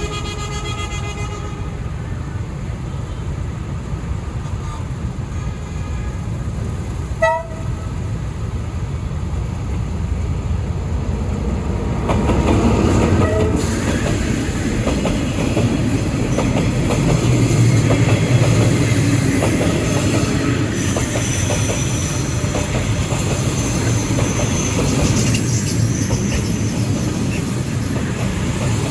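D19E diesel-electric locomotive passing with a container train: a brief horn toot about seven seconds in, then the engine and the rumble of the train grow louder from about twelve seconds in and stay loud.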